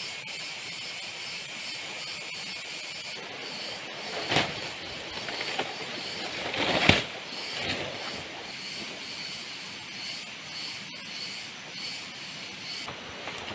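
Heavy jungle rain hissing steadily, with a high buzz over it that stops about three seconds in and later comes back. Near the middle, a few louder swishes or rustles rise over the rain.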